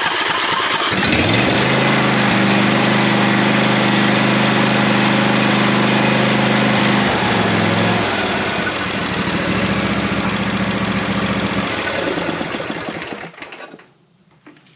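Lawn tractor's Briggs & Stratton V-twin engine cranking on the starter, catching about a second in and running at a steady speed, its note dipping briefly about halfway through, then shut off and running down near the end. This is a start after its valve clearances were reset to four thousandths of an inch.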